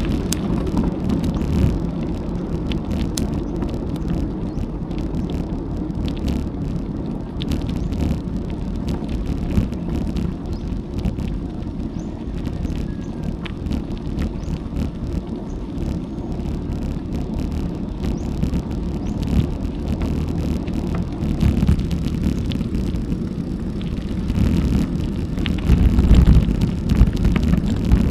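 Wind buffeting an action-camera microphone and tyre noise from a bicycle riding on a road. It is a steady low rumble with scattered small clicks, and it grows louder near the end.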